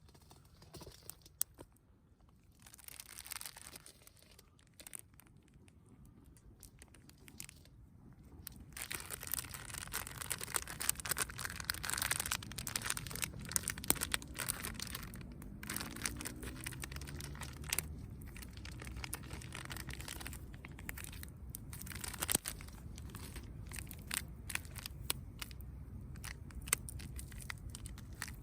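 Crinkling and rustling of something being handled, with scattered small clicks and knocks; it grows louder and busier about nine seconds in.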